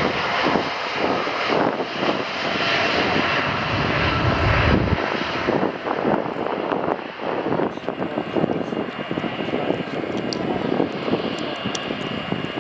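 Boeing 787-9's Rolls-Royce Trent 1000 turbofans at takeoff power: a loud, ragged, crackling jet roar. The deep low rumble falls away about five seconds in, leaving a thinner sound.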